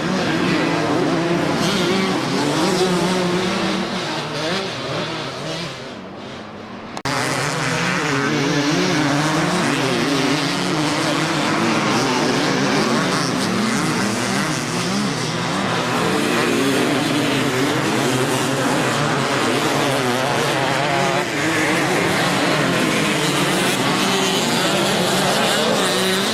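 Several motocross bikes racing, their engines revving up and down together as they ride the track. The sound sags about five seconds in and comes back suddenly about seven seconds in.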